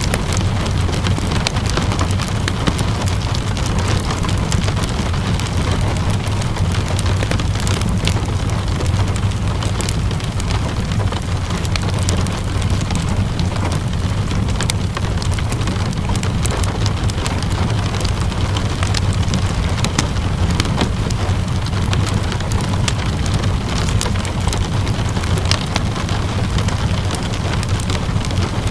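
Steady rainfall hissing evenly over a deep low rumble, with a wood fire crackling in frequent small sharp pops.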